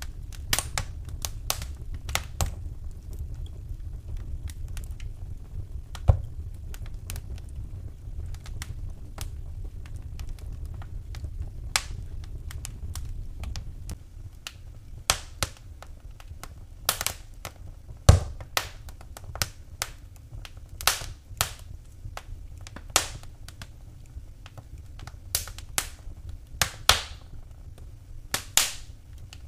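Wood fire burning in a fireplace: irregular sharp crackles and pops over a low steady rumble, with two louder pops about six and eighteen seconds in.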